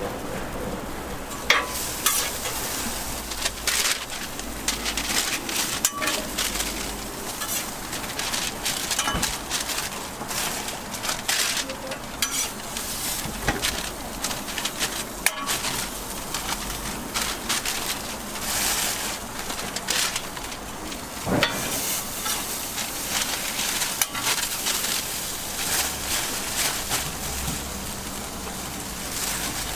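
Food sizzling on a street-food truck's flat-top griddle, with frequent clicks and scrapes of a metal spatula against the hot plate.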